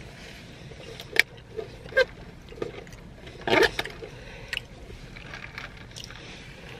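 Close-up eating sounds of a sub sandwich on Italian herb and cheese bread being chewed: a handful of short, sharp smacks and crunches, the loudest a quick cluster a little past the middle, over a steady low background hum.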